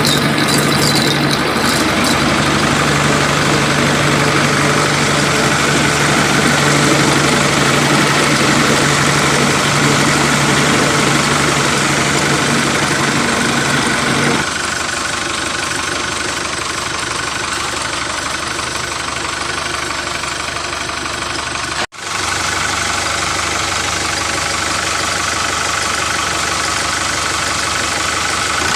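A small motor running steadily. Its sound changes abruptly about halfway through, the low hum dropping away, and it cuts out for an instant near the end.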